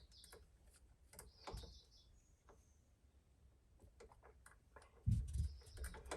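Small clicks and short scrapes of a stripped electrical wire being bent into a hook for an outlet's terminal screw, with a louder low bump of handling about five seconds in.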